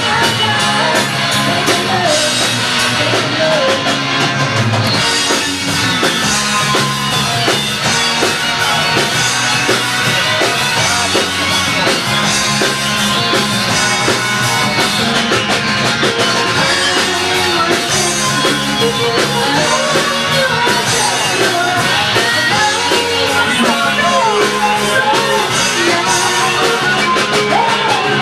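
Rock band playing a song with a drum kit, and a voice singing over it.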